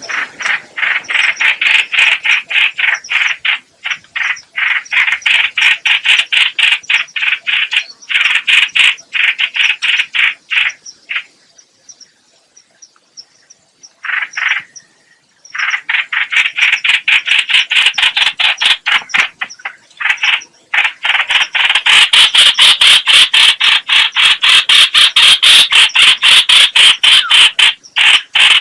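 Rapid, harsh chattering call of the bird known in Vietnamese as trao trảo or hoành hoạch, a decoy call used to lure birds into traps: long runs of quick repeated notes, several a second, with a pause in the middle and the loudest run near the end.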